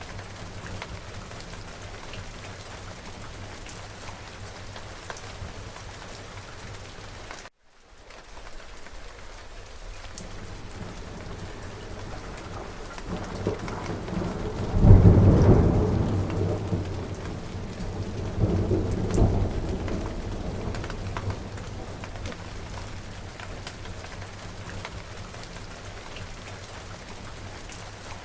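Steady rain falling, with thunder rolling in about halfway: a deep rumble that swells to a loud peak, swells again a few seconds later, then fades back under the rain. The sound cuts out completely for a moment about a quarter of the way in.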